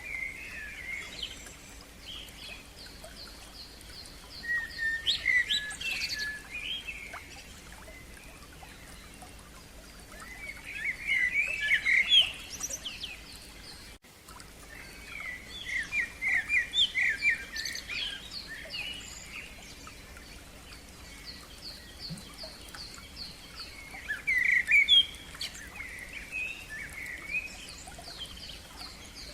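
Songbirds singing outdoors: loud, varied, quick song phrases come in several bursts. Behind them a second bird repeats a fast, even series of high notes, over a faint steady background hiss.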